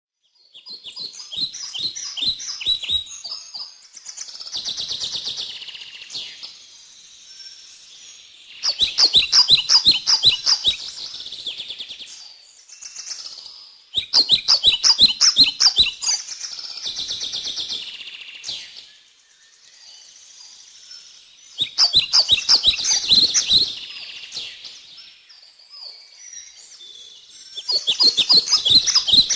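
Songbirds singing. Phrases of rapid, loud chirps about two seconds long repeat every five to seven seconds, with softer warbling in between.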